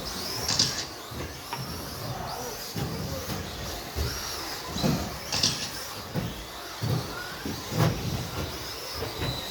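Electric RC stadium trucks with 13.5-turn brushless motors racing on a carpet track: high motor whine rising and falling as the trucks pass, over tyre and track noise. Scattered sharp knocks from the trucks landing and hitting things, the loudest nearly eight seconds in.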